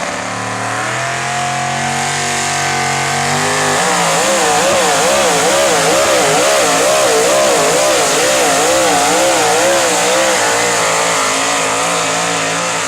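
Chevrolet pulling truck's engine at full throttle dragging a pulling sled. The revs climb over the first few seconds, then the pitch wobbles up and down about twice a second as the truck bounces, the throttle held wide open, and it steadies near the end.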